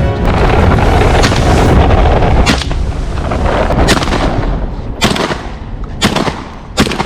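A string of shotgun shots, about seven, fired at irregular intervals a second or so apart, over a steady low rumble.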